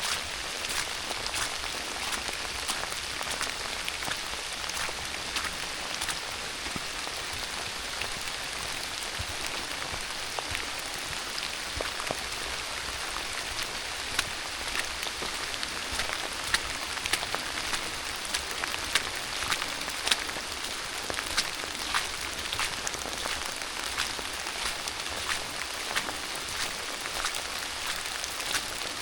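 Steady rain falling, a constant hiss with many close raindrops ticking sharply at irregular moments.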